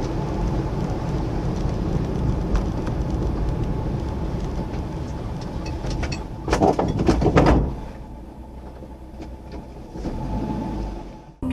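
Steady road and engine rumble of a moving car, with a loud, noisy burst about six and a half seconds in that lasts about a second.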